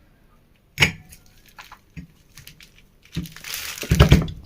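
Ceiling fan parts being handled during reassembly: a sharp knock about a second in, a few light clicks, then a longer scraping, rustling stretch near the end.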